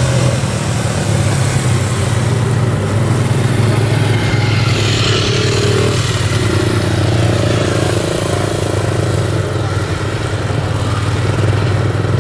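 Motorcycle engine running at low revs, its pitch rising and falling a little.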